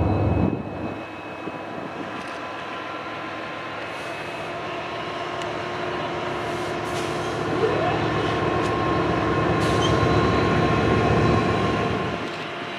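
Union Pacific diesel freight train passing: the locomotives' heavy engine rumble drops away about half a second in as they move past. What follows is the steady rolling noise of the train on the rails with a few thin, steady high tones, swelling a little before falling off near the end.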